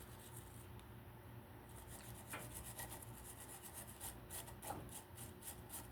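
Faint scrubbing of a brass wire brush on rusty metal of a small generator engine's flywheel and coil contacts, in quick strokes about three a second starting about two seconds in.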